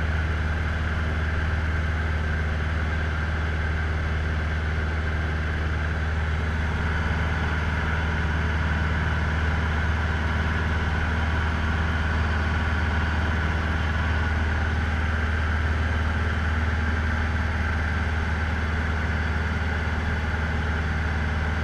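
Cessna 150L's Continental O-200 four-cylinder engine and propeller running steadily: a constant low drone with a fainter whine above it.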